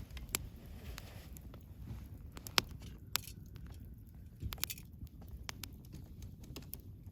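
Wood bonfire crackling: irregular sharp pops and snaps, the loudest about two and a half seconds in, over a low steady rumble of the burning wood.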